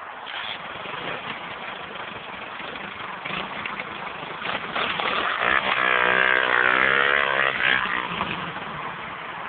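Pit bike engine revving, growing louder about halfway in, its pitch rising and falling for a few seconds as the bike swings round close by, then fading again.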